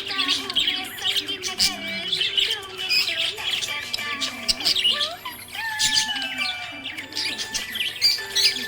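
Budgerigars chirping and warbling continuously: a dense run of quick chirps and gliding notes.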